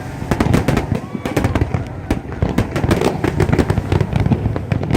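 Fireworks going off in rapid, irregular succession: many sharp cracks and bangs over a continuous low rumble of bursts.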